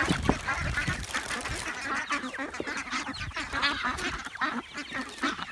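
A flock of ducks, runner ducks among them, quacking continually, with many short calls overlapping as they crowd in to eat.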